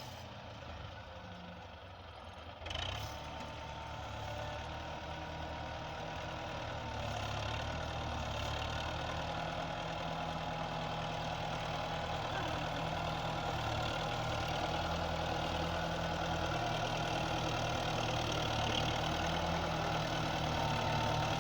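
Belarus tractor's diesel engine running steadily and growing gradually louder, with a brief knock about three seconds in.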